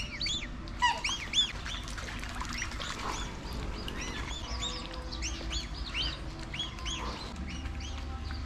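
Ducklings peeping: many short, high chirps overlapping continuously, loudest in the first second or two.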